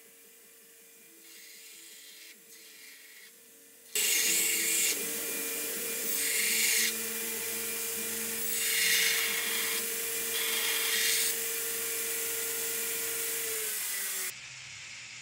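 Belt grinder grinding the profile of a forged steel knife blade. After a few quieter seconds of a faint steady hum, steel meets the running belt and a loud grinding starts suddenly, swelling and easing over several passes. It cuts off sharply near the end.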